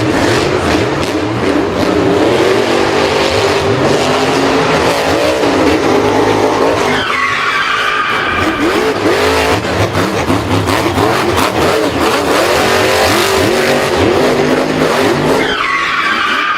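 Racing car engines revving, with skidding tyres squealing; a sharp high tyre screech comes about seven seconds in and again near the end.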